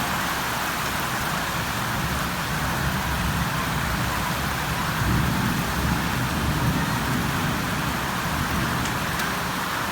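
Steady rain falling, an even hiss, with a low rumble swelling about halfway through.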